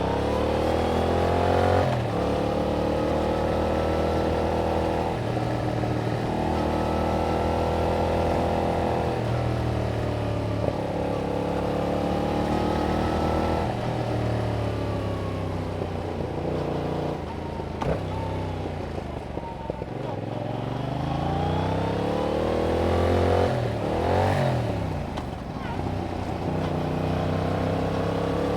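Yamaha MT-07's parallel-twin engine through its stock exhaust under way, the pitch climbing as it pulls through the gears and dropping back at each upshift. Past the middle the revs fall away as it slows, then there is a quick dip and rise about three-quarters through before it accelerates again.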